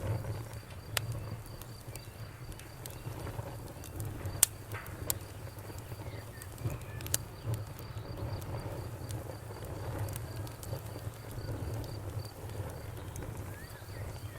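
Wood fire burning with a low rumble and scattered sharp crackles and pops, the loudest about four and a half seconds in, while crickets chirp steadily in a high, even pulse.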